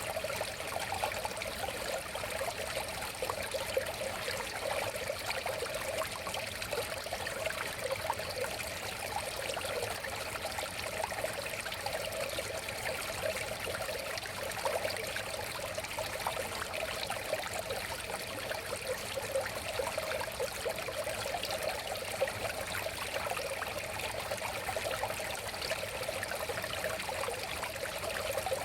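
River water flowing steadily over stones, a continuous babbling and trickling.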